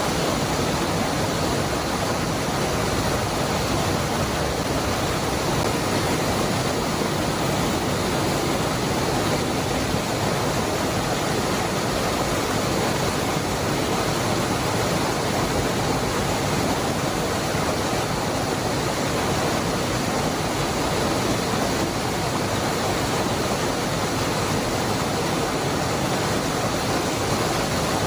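Cascada del Hervidero waterfall: water falling and rushing in a steady, even roar that does not change.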